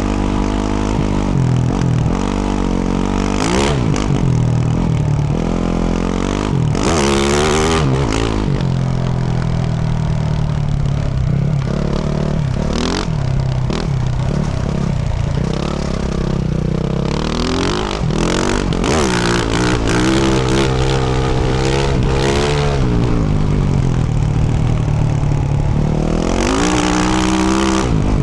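A 2024 Yamaha YZ450F's single-cylinder four-stroke engine through a Yoshimura RS-12 exhaust, revving up and falling back over and over as the throttle is opened and closed while riding. A few short loud rushes of noise come through, near the start, about a quarter of the way in and near the end.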